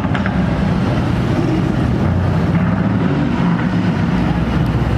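A car engine and exhaust running loudly with a deep, steady low rumble.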